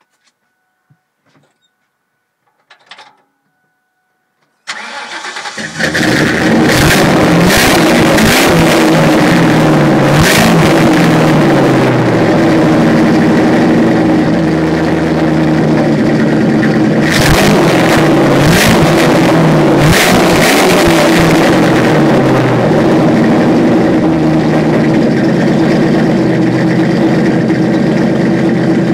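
Saleen car's engine cranks and fires about five seconds in, then runs loud through its exhaust, revved up and down several times, to blow water out of the exhaust. Before it starts there are only a few faint clicks.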